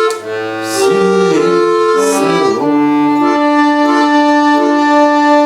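Accordion playing the final bars of a song: a few changing chords, then a long held closing chord from about halfway through.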